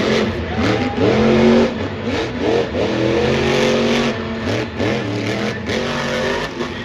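Supercharged, alcohol-burning monster truck engine revving hard, its pitch rising and falling again and again as the throttle is worked.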